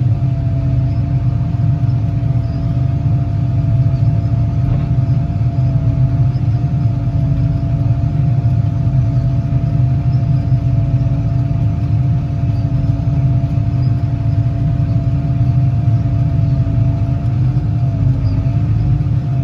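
Farm tractor engine running steadily with a low rumble and a steady whine while its hydraulics slowly raise the harrow sections.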